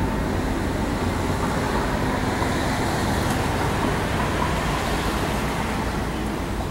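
Steady low rumble of a moving vehicle, road and engine noise without a break.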